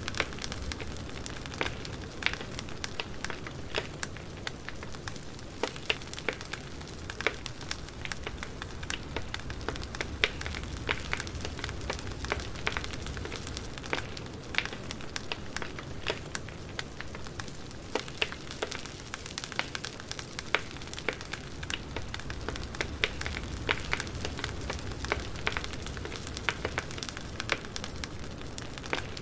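Campfire burning with constant crackling: many quick, sharp snaps at irregular intervals over a steady low rush.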